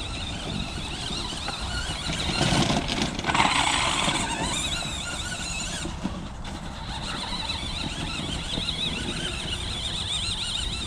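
Remote-controlled monster truck's motor whining as it drives, the pitch wavering up and down with the throttle, over low rumbling ground and tyre noise. About two seconds in there is a louder rush lasting about two seconds.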